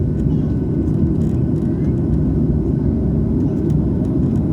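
Steady low rumble of a jet airliner's engines, with a faint steady whine above it.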